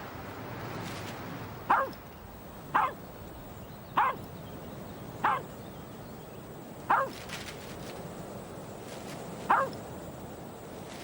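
A dog barking six times in short single barks, spaced unevenly about one to two and a half seconds apart.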